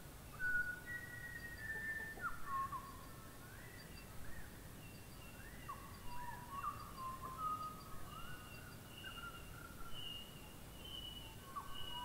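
Birds singing clear whistled notes that slide, hook and loop in pitch, several overlapping phrases, over a steady hiss of rain falling on foliage.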